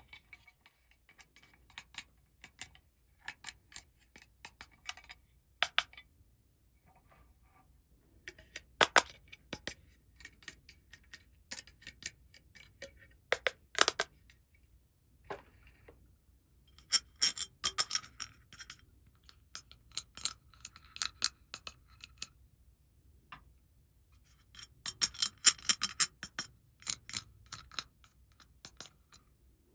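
Small hard plastic toy pieces clicking and tapping as they are handled, with a couple of bursts of rapid rattling clicks.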